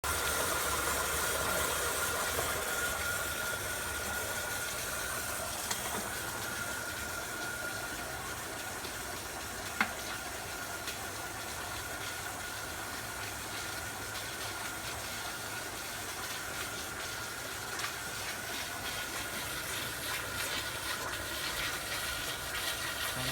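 1973 Mercury 110 9.8 hp two-stroke outboard running steadily in a test barrel. A single sharp click about ten seconds in.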